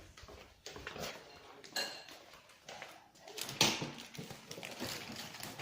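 Household objects being handled and put away: scattered knocks and clatter, with a short ringing clink about two seconds in and a louder knock just after halfway.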